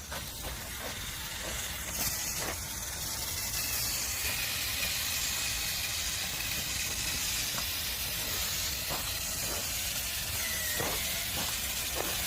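Badminton court line-cleaning machine running: a steady hissing noise that comes up about two seconds in and holds, with a few faint knocks.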